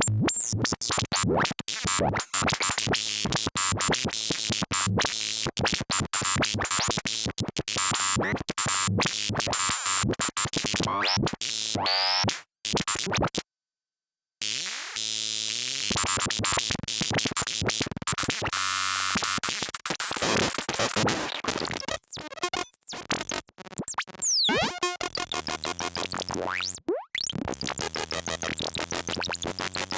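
Lorre-Mill Double Knot synthesizer playing a harsh, noisy patch, its sound chopped into rapid stutters. A rising sweep cuts off into a second of silence about halfway through. Falling sweeps come in later.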